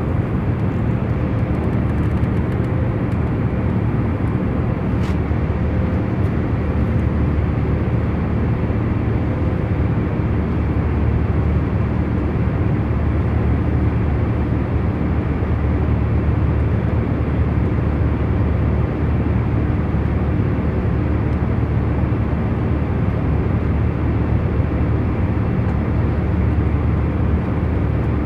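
Jet airliner cabin in cruise: a steady low rumble and rush of engine and airflow noise with a faint droning hum, and a faint tick about five seconds in.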